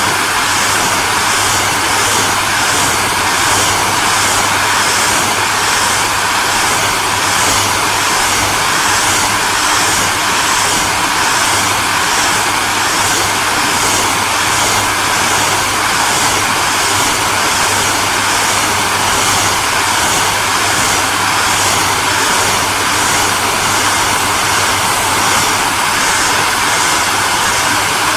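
Hand-held hair dryer running steadily: a continuous rush of blown air over a low motor hum and a faint steady whine, with a slight regular flutter in the hiss.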